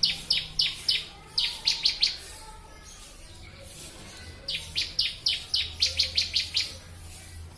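Ciblek (bar-winged prinia) singing: rapid runs of sharp, high chirping notes, several a second. The song comes in three bursts with short pauses between, the longest burst near the end.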